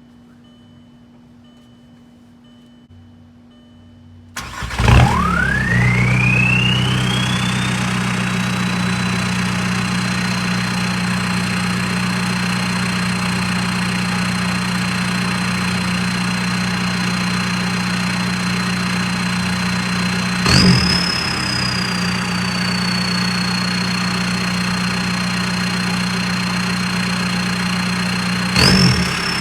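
2001 VW Jetta's ALH 1.9 TDI four-cylinder turbodiesel starts about four seconds in through a straight-piped 3-inch turbo-back exhaust, then settles to a steady idle. The turbo whistle rises over a few seconds to a steady high whine over the idle. Two brief throttle blips, one about two-thirds of the way through and one near the end, push the whistle higher before it falls back.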